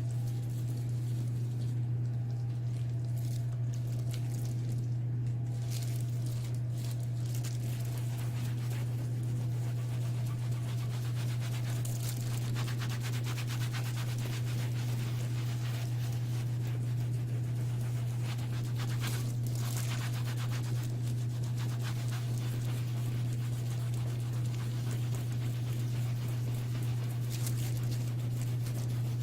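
A steady low electrical hum, with faint rubbing or scraping noises now and then, loudest around the middle.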